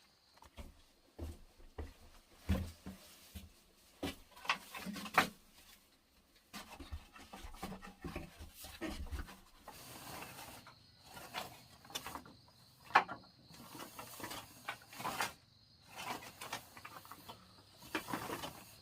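Irregular scraping and rubbing of wood being worked by hand, broken by sharp knocks and clacks, with short pauses between strokes.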